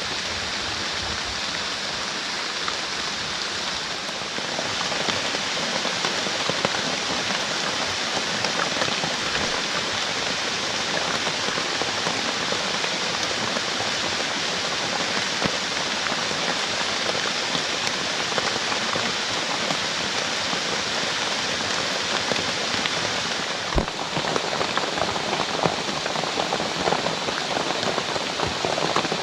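Heavy rain falling, a steady hiss of many small drop impacts that grows a little louder about four seconds in. A single sharp knock sounds later on.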